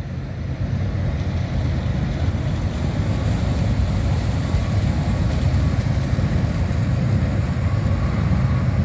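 Canadian Pacific freight train crossing a steel railway bridge: a loud, steady low rumble that builds about a second in and holds.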